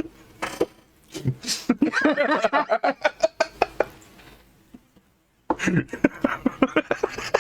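People laughing and giggling in short rapid bursts, broken about two-thirds of the way through by a pause of roughly a second before the laughter starts again.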